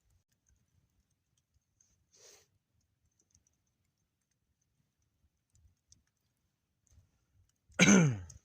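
A man's short cough-like vocal sound, falling in pitch, near the end. Before it, faint scattered clicks and a soft brief rustle about two seconds in.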